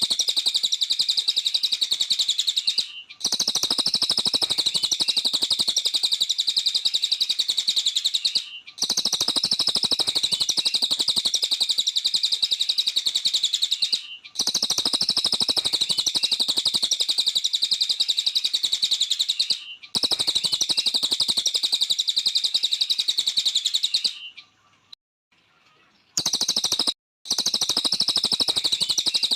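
A cililin bird singing a very fast, continuous chattering song of rapid high notes, in bouts of about five seconds broken by short pauses.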